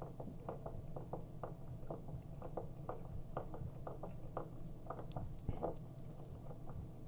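Small faucet parts being handled and fitted onto a valve stem: light, irregular clicks and taps, several a second, over a steady low hum.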